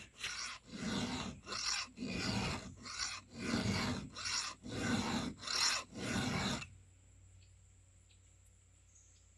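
Hand file rasping across a chainsaw chain cutter in about ten even back-and-forth strokes, roughly one every two-thirds of a second, touching up a tooth whose cutting point is still dubbed. The filing stops about two-thirds of the way through.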